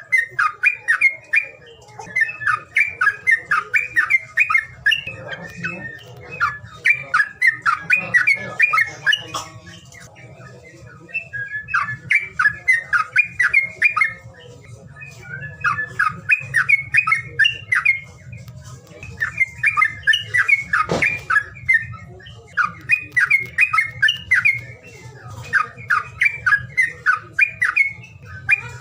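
Songbird chattering in repeated bursts of quick, harsh notes, each burst a second or two long with short pauses between, over a low steady hum. A single sharp knock about two-thirds of the way through.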